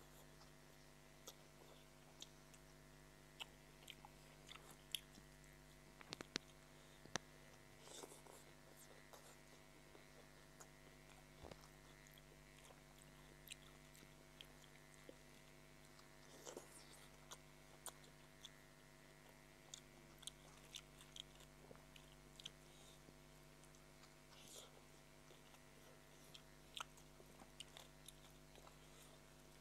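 Close-miked chewing and mouth sounds of someone eating chow mein noodles and fries: irregular wet smacks and sharp clicks scattered throughout, over a faint steady hum.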